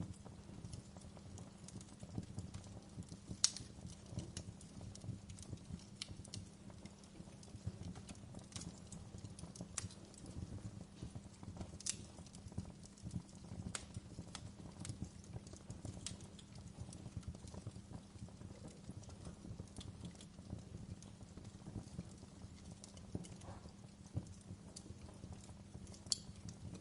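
Wood fire in a fireplace crackling, with irregular sharp pops over a low steady rumble; the loudest pops come about three and a half seconds in and near the end.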